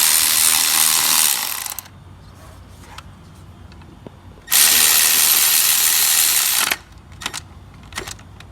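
Cordless power tool spinning a socket to drive in a starter motor's long lower mounting bolt, in two bursts of about two seconds each with a pause between. A few light clicks of metal tool handling follow near the end.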